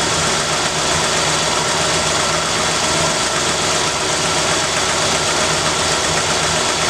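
1967 Ford Galaxie's carbureted 289 small-block V8 idling steadily while it warms up after a cold start.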